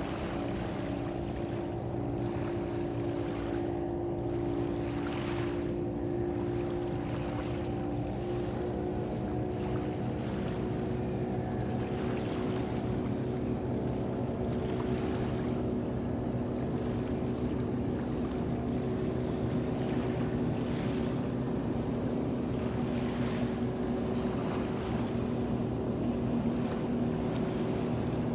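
A boat's engine running with a steady drone whose pitch drifts slightly, over wind and water noise.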